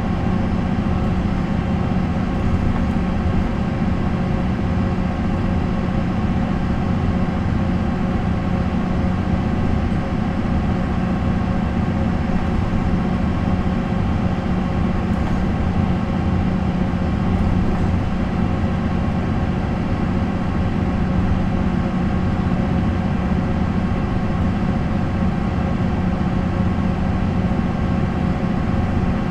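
MAN NL 263 bus's six-cylinder D28 diesel engine running at a steady, unchanging engine speed, a constant low hum with no gear changes or revving.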